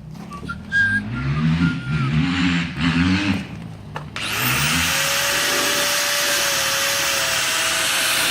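A rotary power cutting tool starts about four seconds in, spinning up quickly and then running at a steady whine with a loud high hiss, as it cuts through the exhaust to chop the muffler off. Before it starts there is a low, wavering hum.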